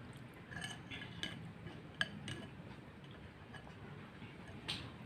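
Eating utensils clinking lightly against a noodle bowl: a few short, scattered clinks, the sharpest about two seconds in.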